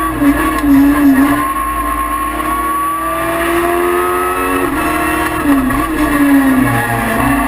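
High-revving racing engine of a VW Polo Mk1 hillclimb car: a 1150cc VW block with a Honda CBR motorbike head, built to rev past 11,000 rpm. The revs dip briefly twice early on, climb steadily for about three seconds, then dip and recover a few more times as the driver lifts and shifts.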